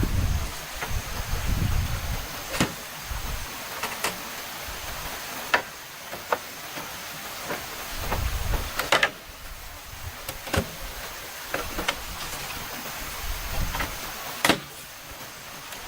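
Scattered sharp knocks and clicks, irregular and a second or more apart, over the steady rush of a stream.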